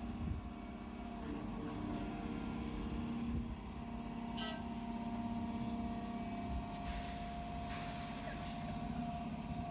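Engine of a heavy logging machine running steadily at a constant pitch.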